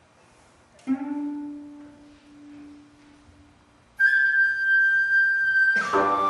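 A single plucked gayageum note about a second in, ringing and fading away. About four seconds in a sogeum, the small Korean bamboo flute, enters with a loud held high note, and near the end the gayageums come in together with a strong chord.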